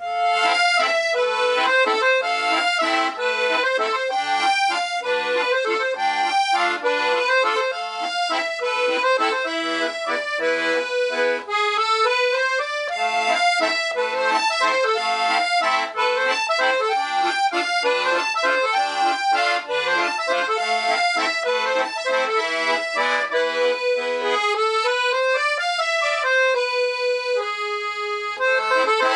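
Black Parrot 120-bass piano accordion with LMM treble reeds being played: a continuous tune of sustained notes and chords, with quick upward runs about 12 and 25 seconds in.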